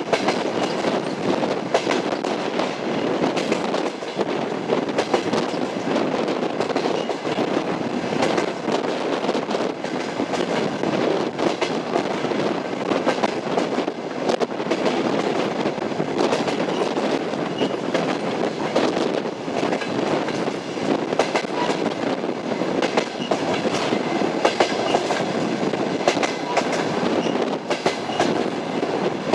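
Train running steadily, its wheels clacking over rail joints in an uneven stream of sharp knocks over a continuous rumble.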